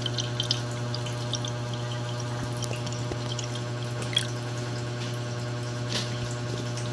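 Water trickling and dripping as a small air humidifier's tank is filled, with a few light clicks, over a steady low hum.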